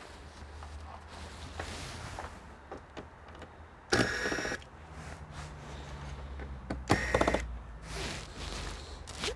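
A small electric motor whirring in two short bursts, about three seconds apart, over a steady low hum.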